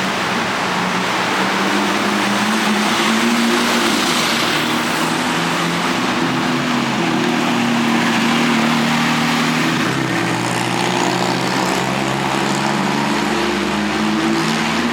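Car engines running in street traffic: a steady hum of noise with engine tones that shift in pitch about ten seconds in.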